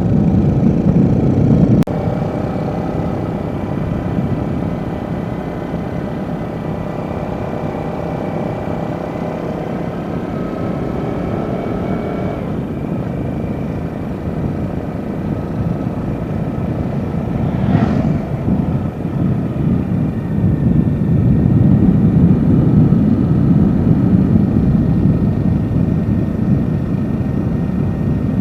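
Motorcycle engine running while being ridden, its note shifting with speed, with a short sharp sound about 18 seconds in.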